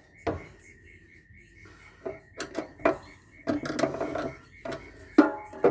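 Scattered metal clinks and knocks from dismantling a solar inverter, with a cluster of clattering about halfway through and a sharp knock near the end.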